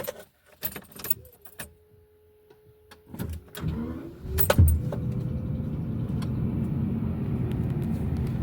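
Keys jingling and clicking in the ignition, then a steady thin whine as the ignition comes on. The 1990 Jaguar XJS's V12 cranks, fires with a loud burst about four and a half seconds in, and settles into a steady idle.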